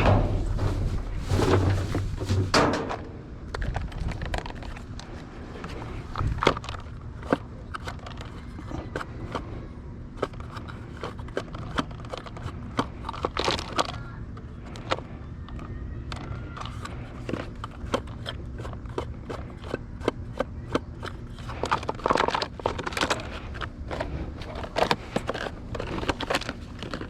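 Rummaging through the contents of a dumpster: many irregular clatters, knocks and crackles of objects being moved and handled. Music fades out about two and a half seconds in.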